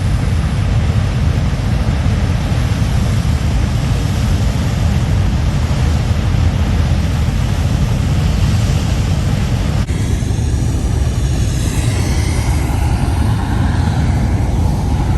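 Loud, steady roar of natural gas burning as it jets from a burst pipeline, with a brief break about ten seconds in.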